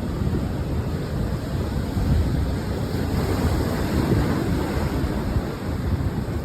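Ocean surf rushing with wind buffeting the microphone: a continuous, gusty roar heaviest in the low end.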